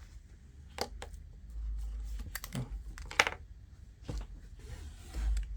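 A pen tapping and scratching on a paper invoice as it is signed: a few scattered sharp taps and clicks with light handling noise.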